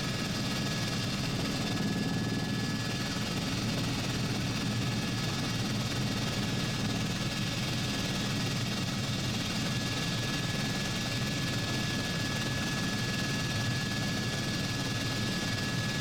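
Helicopter in flight, heard from on board: a steady, unchanging engine and rotor drone with a faint constant high whine over it.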